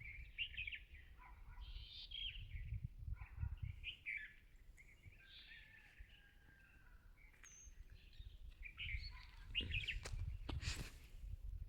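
Small birds chirping and twittering in many short, quick calls, with wind rumbling on the microphone and a brief rustle near the end.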